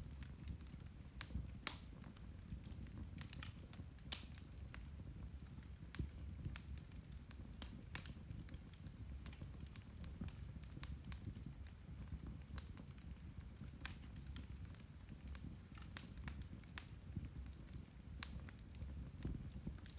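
Turf (peat) fire burning, with irregular sharp crackles and pops over a soft steady low rumble of the flames.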